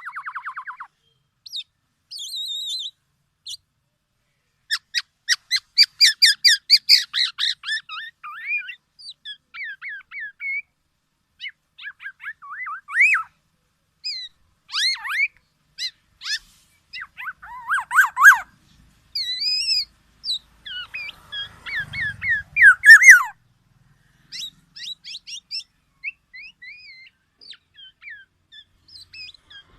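Black-naped oriole (kepodang) calling in short separated phrases: quick runs of notes, brief sliding whistles, and a louder harsh, rasping burst about three quarters of the way through.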